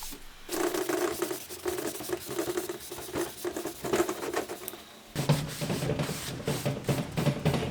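Rubbing strokes on an oiled teak tabletop as Scandinavian oil is worked in with steel wool and buffed off, a scratchy, squeaky back-and-forth at about two strokes a second. About five seconds in the strokes turn lower in pitch.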